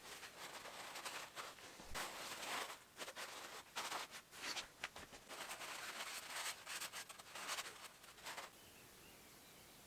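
Irregular scratching and rubbing strokes on a hard surface, like scrubbing or wiping by hand. They stop about eight and a half seconds in.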